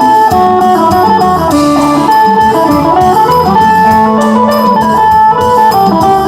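Isan phin, a Thai plucked lute, playing a lively melody over band backing with a steady drum beat.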